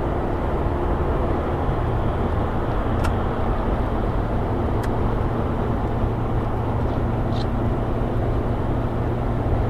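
Steady motor-vehicle engine hum with road noise, level and unchanging, with two faint ticks.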